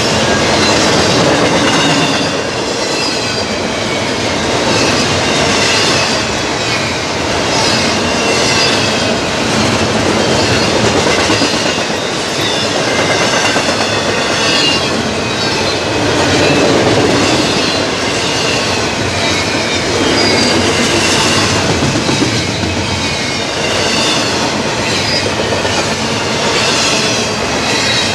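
Double-stack intermodal freight train's well cars rolling past at close range: a steady rumble and clatter of steel wheels on rail, with a high thin wheel squeal coming and going.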